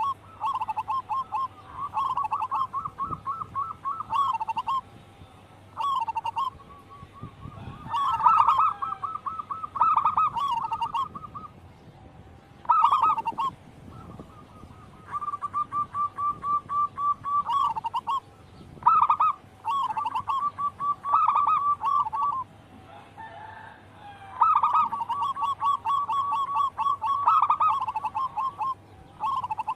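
Zebra doves (perkutut) calling: repeated bouts of quick, staccato cooing notes, several notes a second. Each bout lasts from under a second to a few seconds, with short pauses between.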